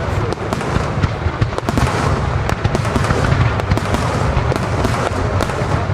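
Star mine fireworks barrage: many shells bursting in quick succession, loud overlapping bangs and crackles several times a second over a continuous low rumble.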